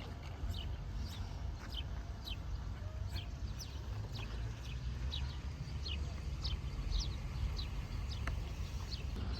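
A bird calling over and over with short, high, falling chirps, about two a second, over a steady low rumble of wind on the microphone.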